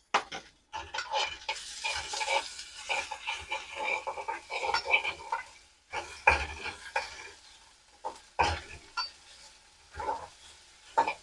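Chopped onion with freshly added ginger and garlic frying in oil in a metal kadai, sizzling, while a perforated steel spoon stirs and scrapes against the pan. The sizzle is densest in the first half; later it thins and the spoon knocks and scrapes against the pan a few times.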